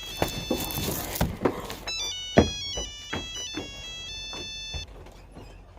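Cell phone ringtone playing a melody of short, stepping high notes, with a few knocks in between, the loudest about two and a half seconds in.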